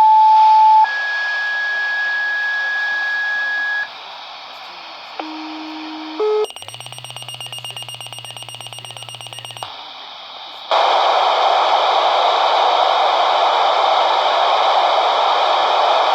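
Dispatch paging tones over radio: a short steady tone, then a longer, higher steady tone of about three seconds. After a pause come brief lower tones and a buzzing pulsed tone of about three seconds. Loud steady radio hiss follows from about eleven seconds in.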